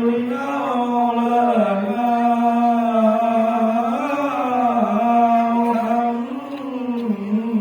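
A man chanting the shalawat, the Islamic blessing on the Prophet, through a microphone in long held notes that slowly rise and fall, one drawn-out melodic phrase.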